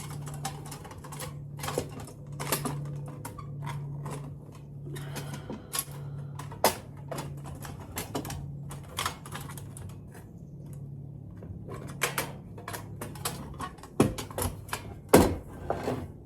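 Coghlan's folding steel pocket stove being unfolded and fitted together: a run of light metal clicks and clinks, with a couple of louder knocks near the end.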